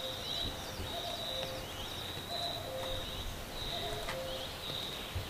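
Birds calling in a steady repeating pattern, a high held note with short falling chirps alternating with lower notes on two pitches, a little under once a second.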